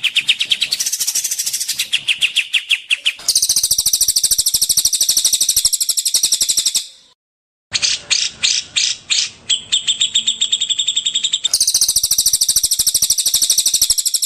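Songbird song from a bird-training masteran recording: very fast, evenly repeated high chirps and trills in blocks that change abruptly where recordings are spliced, with a moment of dead silence about seven seconds in.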